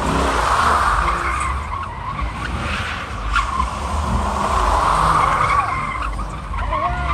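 Car tyres skidding and squealing over the low, steady rumble of the engine. The squeal swells twice.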